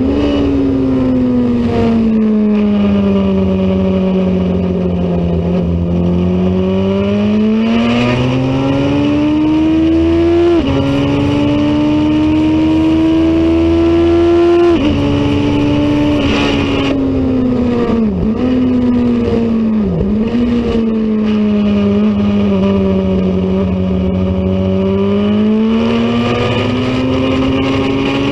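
Racing motorcycle engine at speed, its pitch slowly falling and climbing again as the throttle closes and opens. There are two sudden drops in pitch as it shifts up a gear, about ten and fifteen seconds in, and two quick dips a few seconds later.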